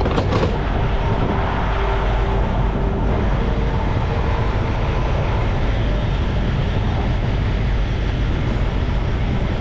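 Steady low rumble of a semi truck's engine running.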